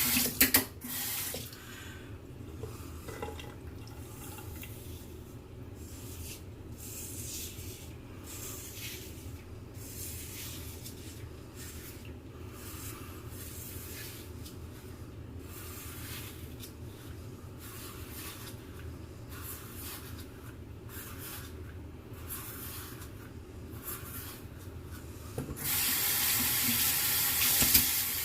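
Bathroom tap running into a sink, shut off about half a second in; then a long quieter stretch of faint, scattered handling sounds, and the tap turned on again about three seconds before the end.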